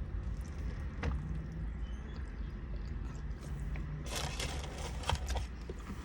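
A person eating a burger: biting and chewing, with a few small clicks and a short crackling rustle about four seconds in, over a steady low rumble.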